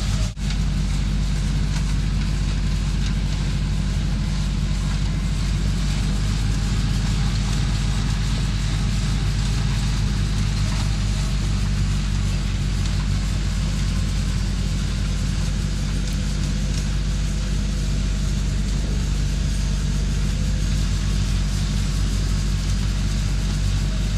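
Engine of a truck-mounted hydraulic snowblower rig running steadily at a constant speed, with a brief dropout just after the start.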